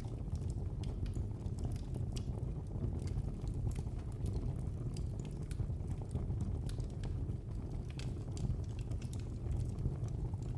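Wood fire crackling in a fireplace: irregular small pops and snaps over a steady low rumble of burning.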